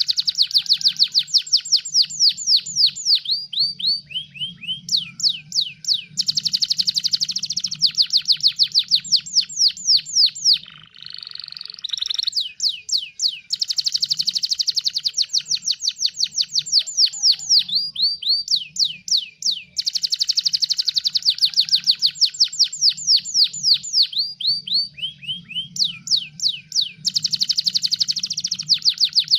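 Domestic canary singing a fast trilling song: long runs of rapidly repeated sweeping notes in phrases a few seconds long, with a short buzzy rattle about eleven seconds in. A faint low hum runs underneath.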